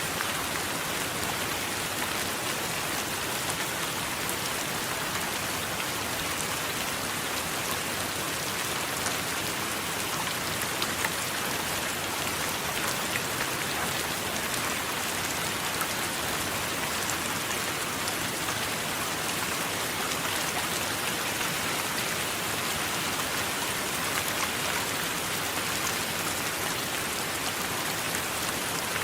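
Steady rain falling, an even hiss with fine drop patter throughout and no thunder.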